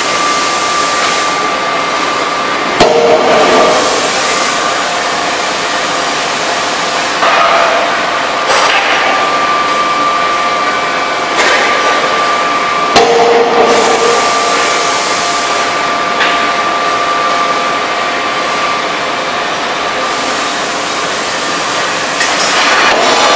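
Electro-hydraulic die forging hammer at work. Two sharp blows stand out, about three seconds in and again about ten seconds later, among smaller knocks. Under them runs steady loud machine noise with a high whine.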